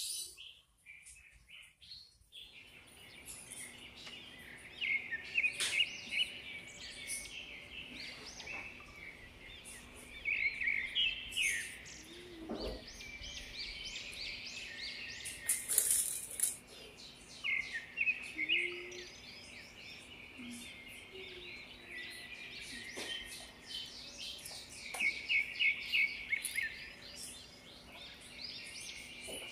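Small birds chirping in bouts of quick, repeated high trills over a faint steady hum.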